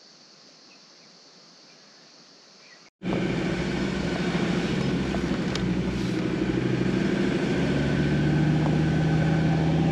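Faint, quiet outdoor ambience, then about three seconds in a sudden cut to a 4x4 vehicle's engine running steadily on the move. The engine drone is loud and even and grows slowly louder.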